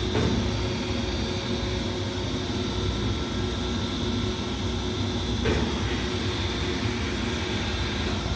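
Seydelmann AU200 frozen block grinder running, a steady machine drone with a constant hum. A high whine in it drops out about five and a half seconds in.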